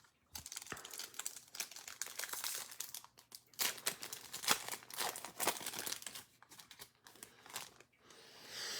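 Crinkling and tearing of a foil trading-card pack wrapper being handled and opened: a run of crackles that grows louder in the middle.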